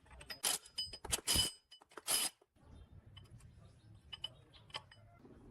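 Metal clinking: several sharp clinks with a short ring in the first two and a half seconds, then lighter scattered taps and ticks.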